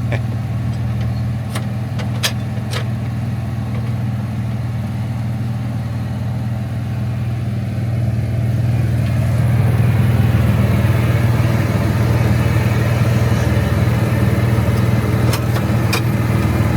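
An engine running steadily with a low, even hum that grows louder about nine seconds in, with a few sharp clicks near the start and again near the end.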